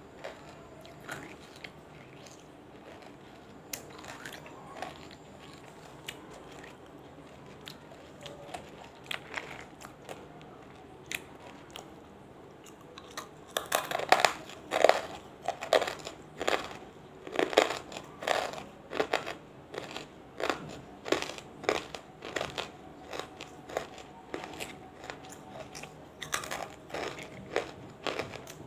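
Chewing of banslochan (tabasheer, the chalky silica from bamboo): a few soft clicks at first, then from about halfway in a run of loud, regular crunching bites, roughly one or two a second.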